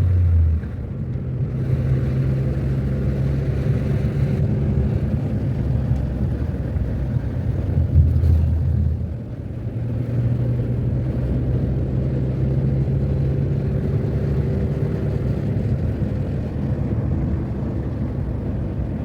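Car driving on a road: a steady engine drone and road rumble, with the engine note shifting pitch a couple of times.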